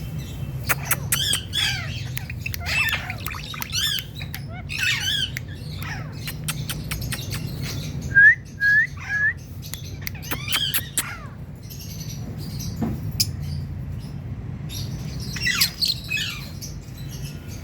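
Pet parrot squawking and chattering in short calls with sharp clicks, and three quick whistled notes about eight seconds in, over a steady low hum.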